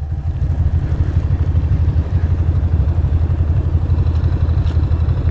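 Ducati Monster's L-twin engine running steadily, with an even, fast pulse.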